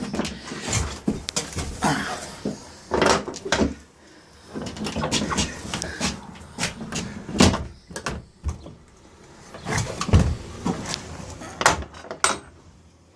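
A door on a shed-like camper built onto a truck bed being opened and handled: scattered knocks, clunks and rattles at an uneven pace.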